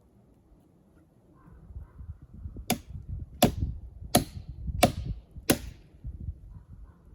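Five sharp knocks in a steady rhythm, about one every 0.7 seconds, over a low rumble.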